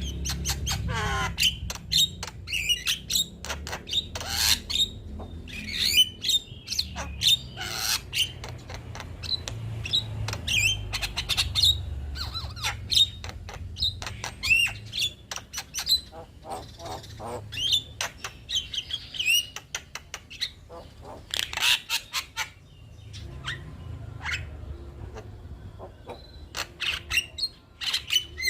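Male Javan myna singing a long, unbroken run of varied chatter: rapid sharp clicks, harsh squawks and short whistled glides.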